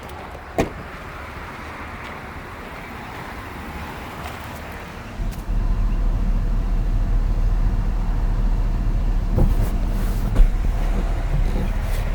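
Isuzu reefer truck's engine idling, a steady low rumble that becomes much louder and closer about five seconds in, with a sharp click near the start and a light knock near the end.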